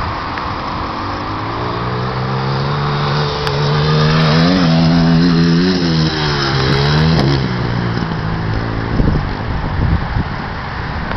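100 cc dirt bike engine running flat out in top gear: its note rises and grows louder, wavers near its peak, then drops and fades away, with wind noise throughout.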